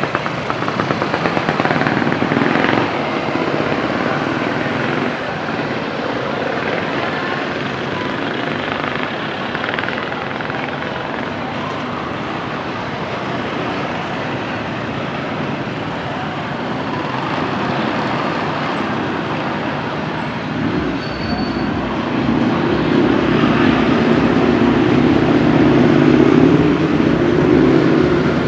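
Street traffic: motor vehicles running past in a steady wash of noise. About three-quarters of the way through, a louder engine rumble comes in and stays to the end.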